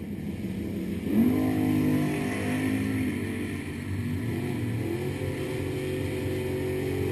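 468 cubic-inch big-block Chevy V8 in a 1978 Malibu drag car accelerating: the revs climb sharply about a second in and hold, ease off, then climb again near five seconds.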